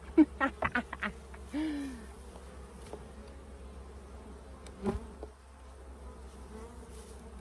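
Honeybees buzzing steadily in a low hum around an open hive. In the first two seconds a person's voice makes several short pitched sounds, and about five seconds in there is a single sharp knock.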